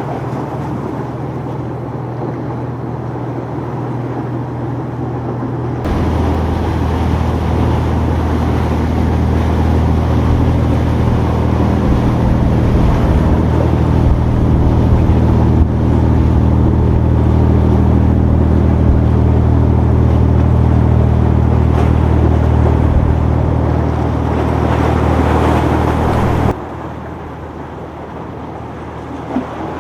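Powerboat engines running steadily as boats pass through the inlet, with a low droning hum and a rush of wind and water noise over it. The engine sound gets abruptly louder about six seconds in and drops sharply a few seconds before the end.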